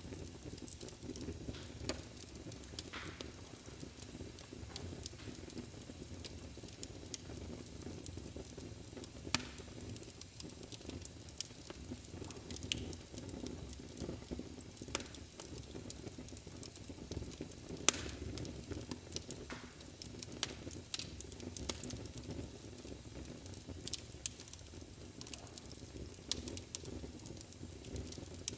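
Wood fire burning in a fireplace: a steady low rumble and hiss with irregular sharp crackles and pops, a few louder snaps among them.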